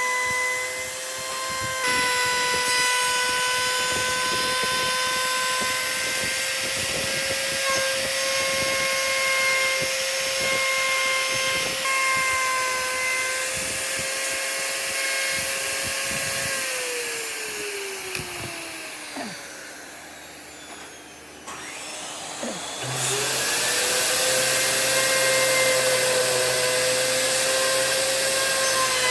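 Electric power tool motor running with a steady whine, winding down in pitch about 17 seconds in and falling quiet briefly. Near 23 seconds it starts up again and returns to full speed.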